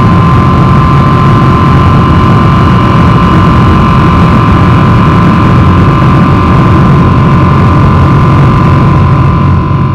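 Boeing 777-300 jet engines running, a steady loud rumble with a steady whine on top, fading out at the very end.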